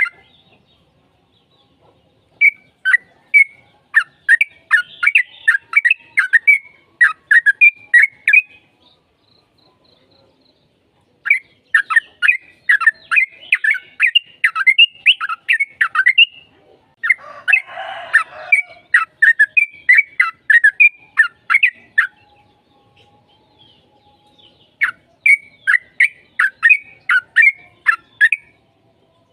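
Yellow-vented bulbul (trucukan) song: bouts of rapid, bubbly chirping notes lasting several seconds each, broken by short pauses. A harsher, scratchy call cuts in a little past the middle.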